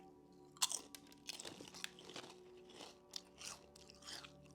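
Potato chips being bitten and chewed up close: a sharp crunchy bite about half a second in, then a run of crunchy chews. The chips are Japanese steak-flavoured Lay's.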